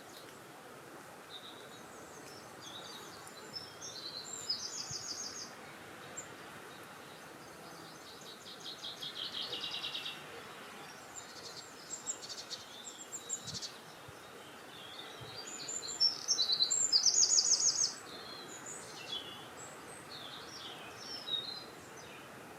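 Songbirds singing outdoors: a series of short, rapid trilled phrases, the loudest about three-quarters of the way through, over a steady background hiss of wind and ambience.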